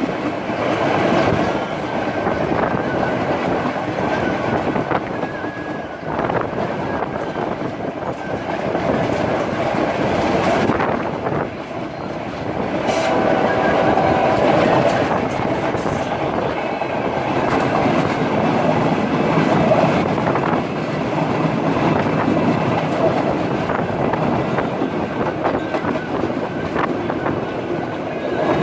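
Express passenger train running along the line, heard from on board, with a steady rumble and the wheels clattering over the rail joints.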